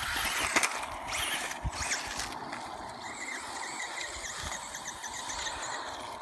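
Radio-controlled toy car running with a high squealing whine, loudest and noisiest in the first two seconds or so, then a thinner, wavering whine.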